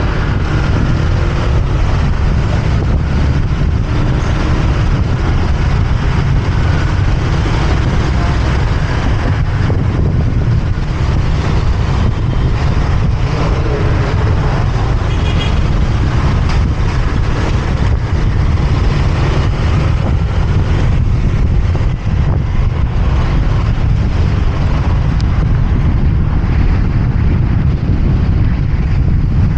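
Motorbike ride through city traffic heard from the rider's position: a loud, steady low rumble of wind and engine noise with the hiss of surrounding traffic, unchanging throughout.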